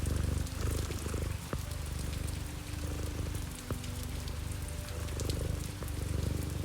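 Domestic cat purring close up, the low rumble swelling and easing with its breaths, over soft sustained tones and scattered light ticks.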